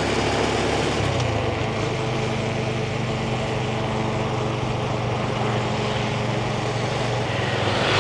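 Yamaha 125cc motorbike engine running steadily under way, with road and wind noise; its note shifts about a second in and then holds.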